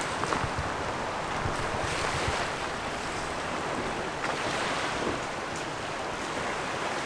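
Waves washing on a beach in a steady rush, with wind gusting on the microphone and a few low buffets in the first couple of seconds.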